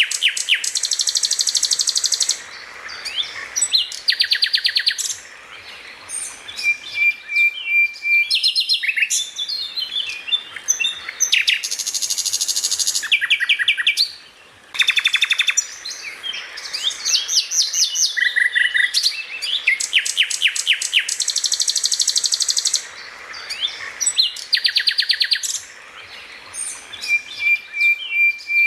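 Songbird singing rapid trills, fast chattering runs and dense buzzy bursts, with a high steady whistle held twice. The same run of phrases comes round again about two-thirds of the way through, as in a looped training recording.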